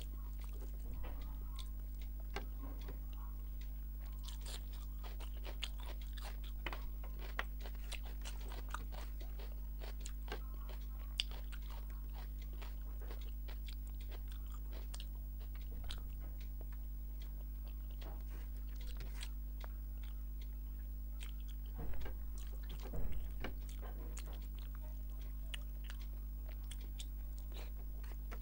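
Close-up mouth sounds of a person eating rice and fish curry by hand: many small wet clicks and smacks of chewing, with two louder bursts a little over twenty seconds in. A steady low electrical hum runs underneath.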